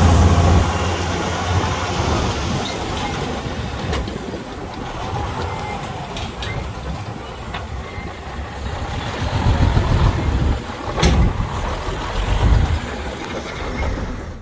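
Heavy diesel earthmoving machinery running. The engine swells under load several times in the second half, with a few sharp knocks.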